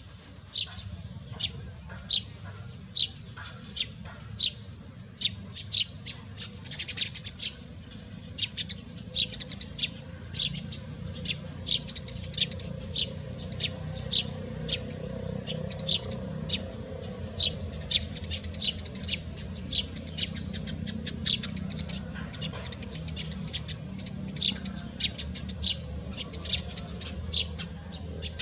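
Wild bird calling: many short, sharp, high chirps in quick irregular runs, which come faster and denser in the second half.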